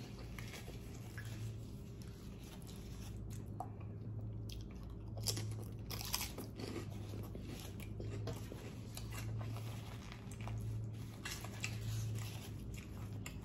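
Close-up biting and chewing of crispy spicy pork skins (chicharrón), with irregular sharp crunches scattered through it. A steady low hum runs underneath.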